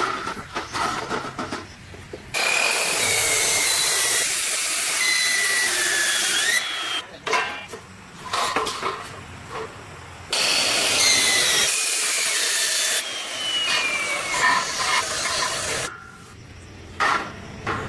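A power tool running in two spells of about four and six seconds, with a high whine that drops in pitch as it works.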